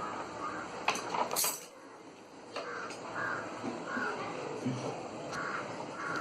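A few sharp metallic clicks and knocks from hand tools and screws being worked on a front-load washing machine's drum assembly, loudest in the first second and a half. From about halfway in, short repeated calls are heard in the background.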